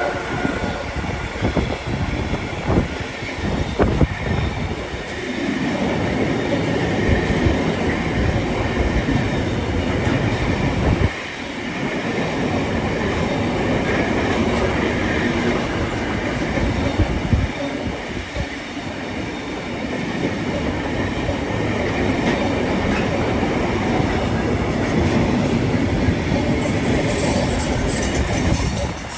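Train running past on the track: a continuous rumble of wheels on rails, with a few sharp clacks over rail joints.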